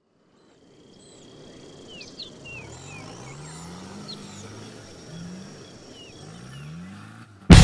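Off-road 4x4 engine revving in several short rising pulls, fading in at the start, with birds chirping and a steady high insect whine of the rainforest over it. Loud rock music cuts in at the very end.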